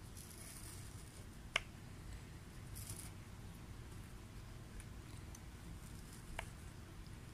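A burning Swedish torch log giving two sharp crackles, one about a second and a half in and a fainter one near the end, over a faint low rumble.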